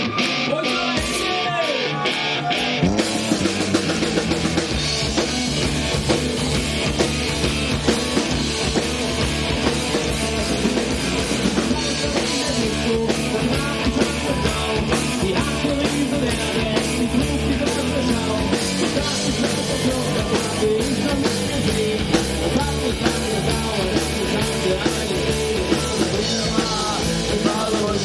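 Punk rock band playing live with a drum kit and amplified instruments; the full band comes in about three seconds in after a sparser opening of evenly spaced beats.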